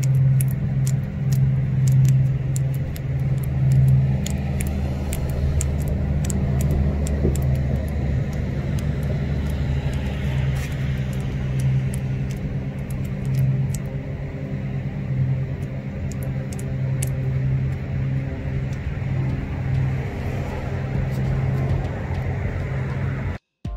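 A vehicle engine running at idle, a steady low hum, with light clicks from gloved hands working epoxy putty. The sound cuts off suddenly near the end.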